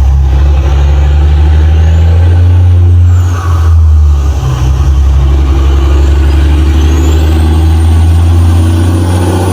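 Loud, steady low engine-like rumble with a faint high whine that rises and falls twice.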